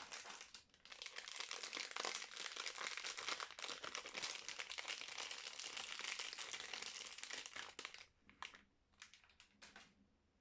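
Soap wrapping being crinkled by hand as a bar of soap is unpacked: a brief crinkle, then about seven seconds of continuous crinkling, then a few separate short crinkles near the end.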